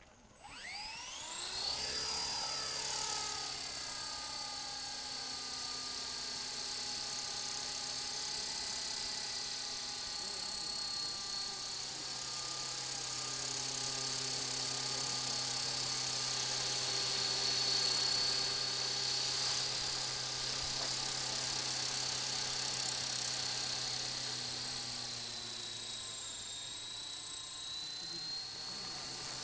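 Walkera LM3 radio-controlled electric helicopter spooling up: its motors and rotors rise quickly to a steady high whine, which drops a little in pitch near the end as the throttle is eased.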